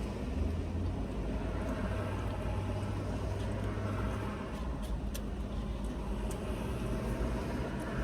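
Car engine running, heard from inside the cabin as a steady low hum. A few light clicks come about five seconds in.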